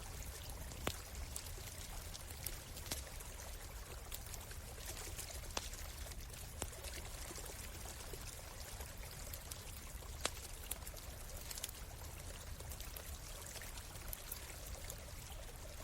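A stream flowing steadily, with a campfire crackling over it in scattered sharp pops, the loudest about a second in and about ten seconds in.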